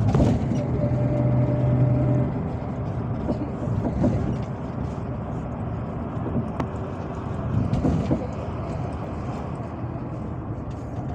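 MAZ-257 bus heard from inside the cabin while driving: a steady engine drone and road rumble. There is a knock right at the start, and a steady hum that stops a little after two seconds in.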